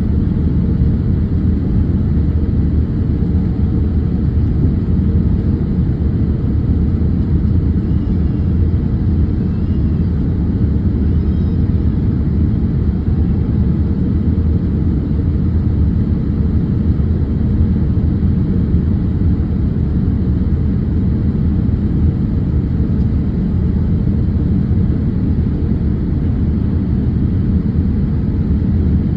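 Boeing 787 cabin noise: a steady low rumble of the jet engines and airflow heard from inside the passenger cabin.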